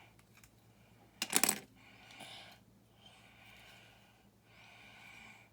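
A short, loud clatter of small plastic building bricks about a second and a half in, with a few faint clicks of pieces being handled around it, and soft breathing between.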